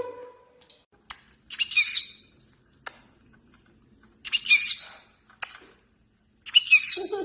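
A pet parrot calling three times, each a high call about a second long, spaced a little over two seconds apart, with short sharp clicks in between.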